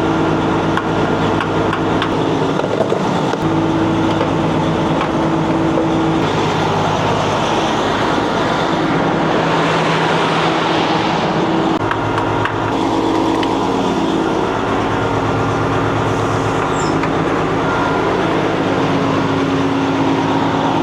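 A diesel engine running steadily, a continuous hum whose pitch shifts slightly every few seconds.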